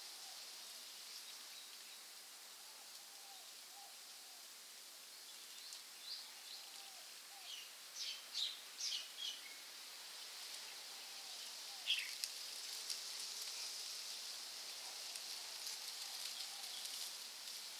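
Rainforest ambience: a steady high hiss with birds calling, including a quick run of loud chirps about eight seconds in and a single falling call at about twelve seconds.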